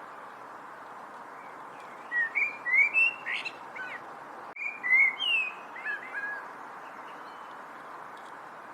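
A songbird singing two short phrases of quick slurred whistled notes, about two seconds in and again around five seconds in, over a steady background hiss.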